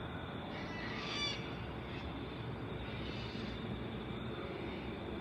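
Endeavour diesel railcar running steadily at low power, a low rumble with a faint steady hum.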